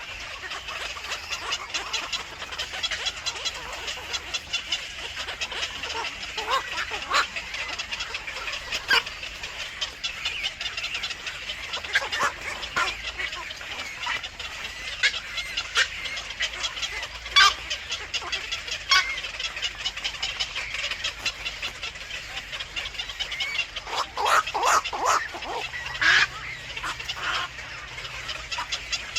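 Birds calling: a steady high chatter with many short, sharp calls over it, coming thicker near the end.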